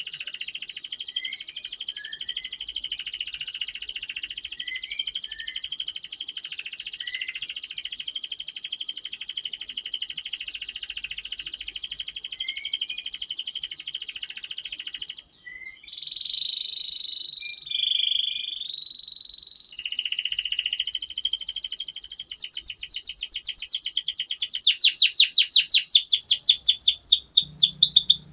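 Domestic canary in full song: a dense run of rapid warbling notes, a short pause, then a few long held whistles about halfway through. The song ends with loud, very fast rolling trills.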